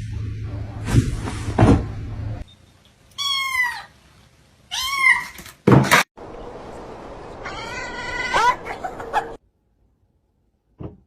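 A cat meowing three times, drawn-out calls that bend in pitch. Two knocks come before the first meow, and a sharp bang falls between the second and third.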